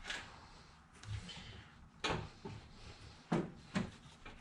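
A few sharp knocks and clunks of heavy metal parts being shifted by hand, spaced out, with two close together near the end, as the engine's keyway is worked into line with the drive stub shaft.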